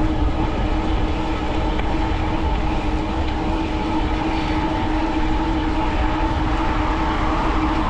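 Wind buffeting a chest-mounted action camera's microphone while riding a fat-tire electric bike at about 20 mph. A constant, even-pitched hum from the moving bike runs underneath.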